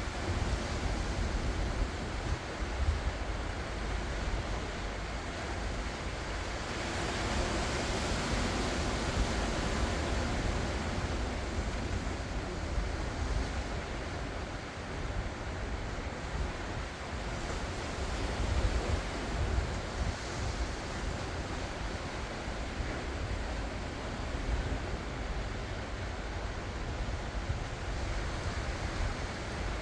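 Ocean waves breaking and washing ashore in a steady surf, swelling about a quarter of the way in and again near two-thirds, with wind rumbling on the microphone.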